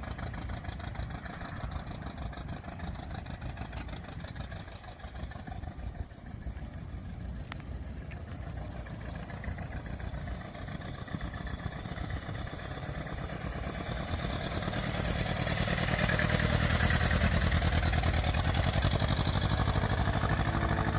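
1926 Ford Model T truck's inline four-cylinder engine running with an even low pulse, growing clearly louder about two-thirds of the way through.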